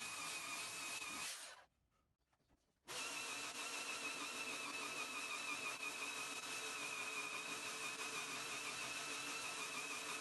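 An electric power tool's motor running steadily with a high whine. It cuts out to near silence about a second and a half in, then comes back at full speed just over a second later.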